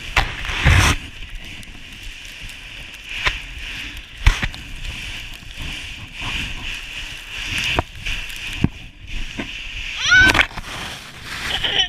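A sled sliding down a snowy hill: a steady scraping hiss of snow under the sled, with several sharp thumps as it hits bumps. About ten seconds in, a child gives a short high-pitched cry.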